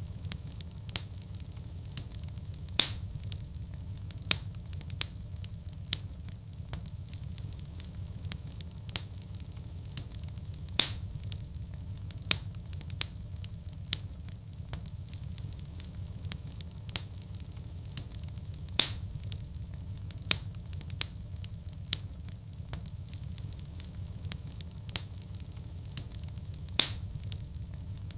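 Fireplace fire burning: a steady low rumble with a scatter of small crackles, and a louder sharp pop about every eight seconds.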